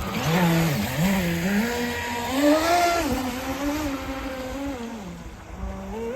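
RC speedboat's electric motor running on the water, its whine rising and falling with the throttle: it climbs to a peak about two and a half seconds in, drops off, and picks up again near the end.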